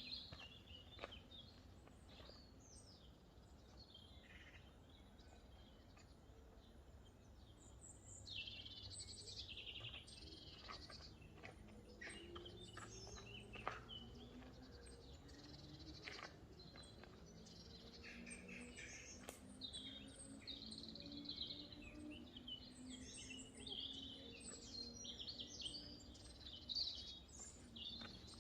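Faint birdsong: small birds chirping and trilling, busier after the first few seconds. A faint low drone slowly shifts in pitch through the middle, with a few scattered clicks.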